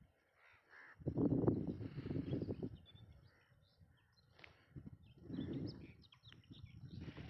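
Small birds chirping in short high calls, more of them toward the end, between two bouts of low rumbling noise.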